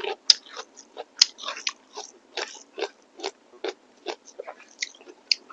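A person chewing food close to the microphone, with steady wet chews about two or three a second and a couple of sharp clicks in the first second or so.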